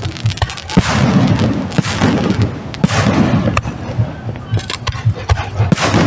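Aerial fireworks going off in quick succession: many sharp bangs and booms, with several longer crackling bursts spread among them.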